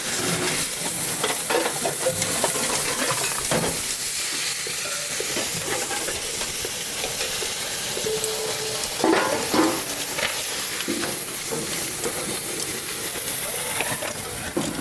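Metal knocking and scraping against a steady hiss while a large compressor's casing is opened and its inner parts are worked out. A few sharper clanks stand out, one a few seconds in and a cluster near the middle.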